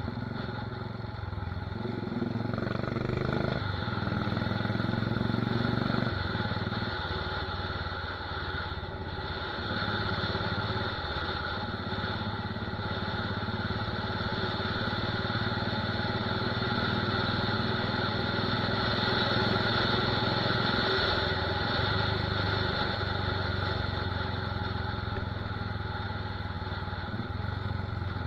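Royal Enfield Desert Storm's 500 cc single-cylinder engine running steadily through an aftermarket megaphone silencer, with a loud exhaust note that swells and eases slightly.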